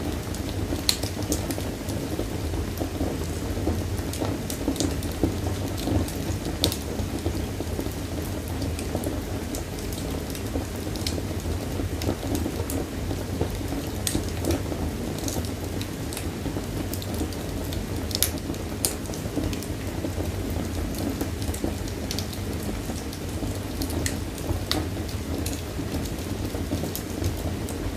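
Wood fire burning in a fireplace: a steady low roar of flames with frequent sharp crackles and pops scattered irregularly throughout.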